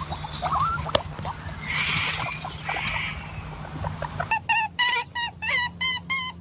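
An animal calling in a quick run of short, high calls from about four seconds in, roughly two a second, some falling in pitch, over a steady low hum.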